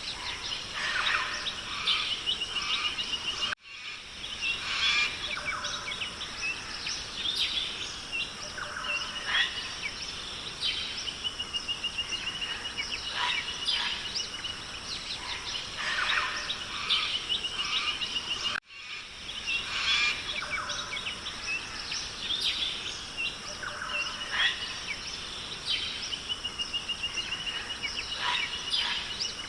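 Rainforest ambience of many birds calling and chirping, with a repeated rapid trill, over a steady high hiss. Twice the sound drops out for an instant and the same stretch of birdsong starts over, a looped recording.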